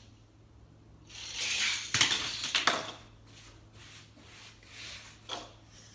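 Die-cast toy cars rolling fast down a toy track, a rising rattling rush, then a few sharp clacks about two seconds in as they leave the jump and hit down. A lighter clack follows near the end.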